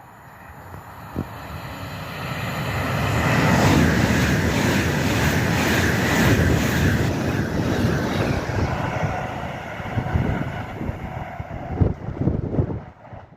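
A train passing along the track: the rumble and rush of wheels on rail build over about four seconds, stay loud for several seconds, then ease off, with a few clunks near the end.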